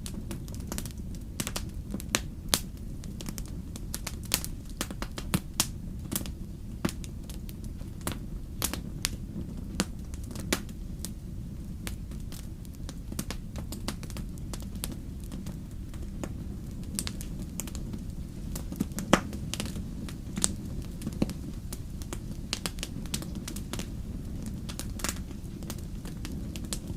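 Wood campfire crackling: irregular sharp pops and snaps of burning wood over a steady low rumble of the flames, with the loudest pop about two-thirds of the way in.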